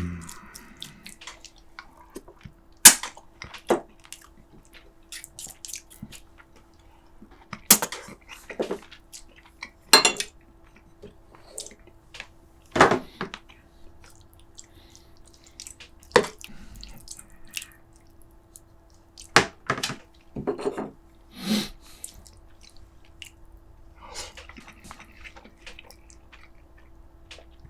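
Utensils clicking and clinking against dishes during a meal: a dozen or so scattered sharp knocks spread irregularly across the stretch, over a faint steady low hum.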